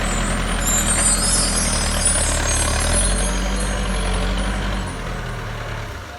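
Heavy construction vehicle's diesel engine running steadily, its note shifting about three seconds in, with a thin high-pitched squeal in the first couple of seconds.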